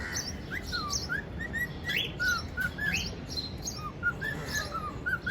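Pet cockatiels chirping: a run of short whistled calls that glide up and down, following one another quickly.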